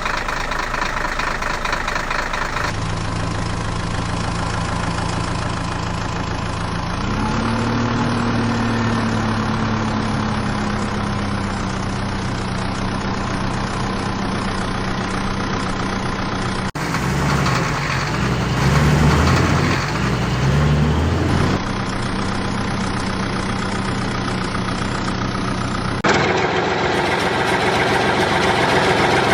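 Heavy vehicle engines idling, heard across several spliced clips, with a slow rise in pitch about a quarter of the way in and a stretch of uneven revving a little past halfway.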